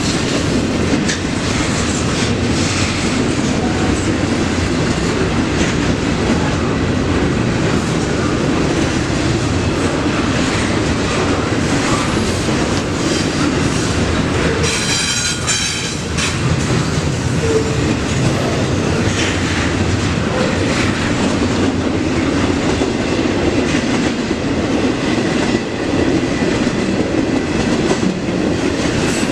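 Freight train cars rolling past, their wheels clacking over the rail joints. About halfway through, a brief high-pitched wheel squeal.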